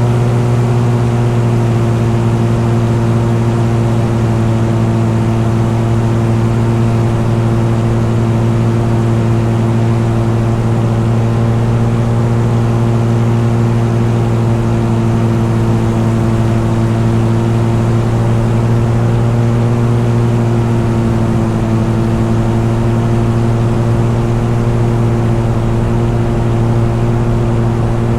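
A vehicle engine running at a steady, unchanging speed, a constant drone with no revving.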